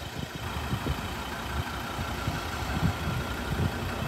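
A vehicle engine idling steadily, with irregular low rumbling throughout.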